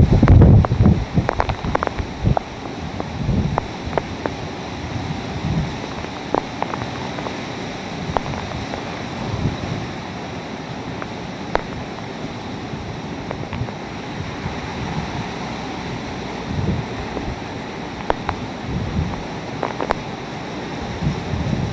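Hurricane-force wind blowing steadily with gusts that buffet the microphone, loudest right at the start and surging again several times. Scattered sharp knocks and rattles come through the wind.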